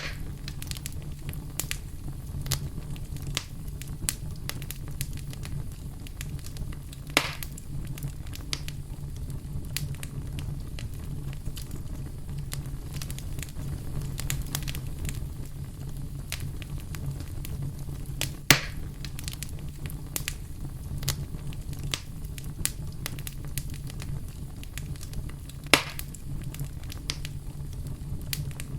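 Campfire burning with a steady low rumble and frequent scattered crackles, with three louder pops standing out.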